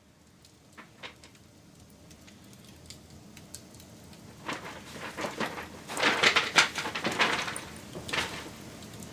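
Wood fire crackling: a few scattered pops at first, then a quick run of loud crackles and snaps in the second half before it settles again.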